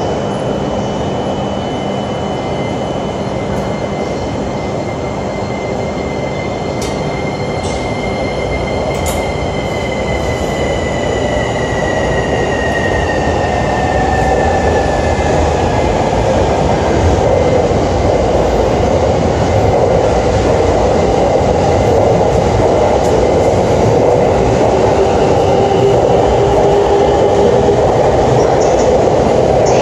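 Shinkansen train pulling out: its electric traction motors whine and climb in pitch as it gathers speed, over a rumble that grows steadily louder, with a higher tone that falls away partway through.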